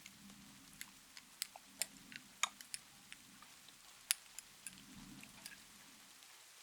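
Moisturizing serum being handled up close for ASMR: a scattering of sharp, sticky wet clicks and small droplet-like pops, irregular and unhurried. Soft rain ambience hisses underneath.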